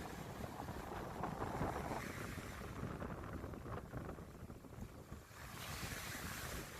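Sea waves breaking and washing on a beach, with wind buffeting the microphone. A hissing wash swells up near the end.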